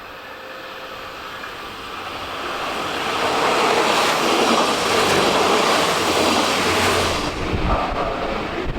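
A train running past at a station platform. Its rushing noise builds over about three seconds to a loud level and holds there. About seven seconds in, the high hiss drops away suddenly, leaving a lower rumble.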